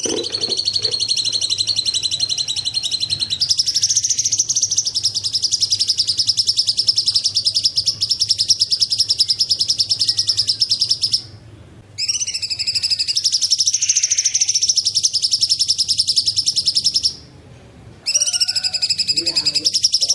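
Cucak cungkok singing in long, very fast trills of rapidly repeated high notes. It gives three bouts, with short pauses about eleven and seventeen seconds in.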